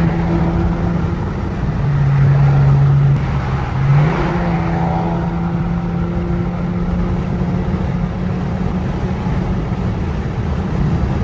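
Car engine droning steadily while driving. Its pitch drops about two seconds in and climbs back up about two seconds later.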